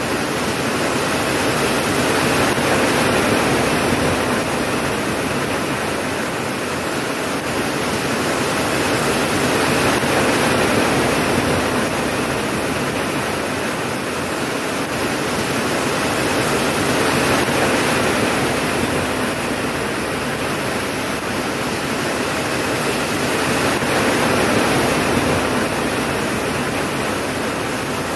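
Steady heavy rainfall, a dense even hiss that swells and eases gently about every seven seconds.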